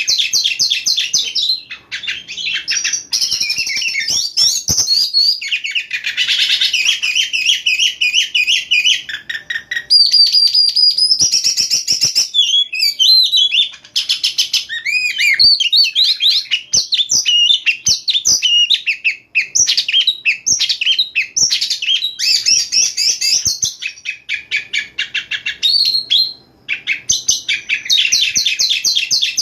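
Oriental magpie-robin (kacer) singing a long, fast, varied song of whistles, trills and rapid chattering note runs, with brief pauses about halfway and near the end.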